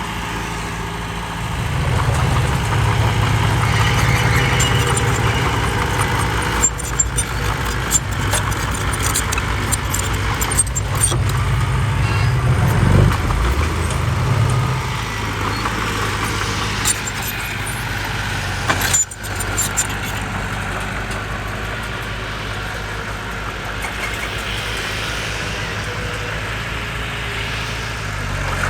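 Heavy diesel engine of earthmoving machinery running, working harder from about two seconds in, with a brief rev near the middle. Scattered metallic clanks come over the engine.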